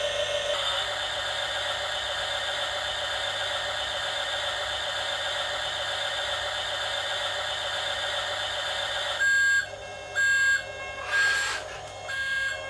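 Radio-controlled toy vehicle's electric motor whining steadily. About nine seconds in, four loud electronic beeps sound roughly a second apart, like the sound module's warning or reversing beeps.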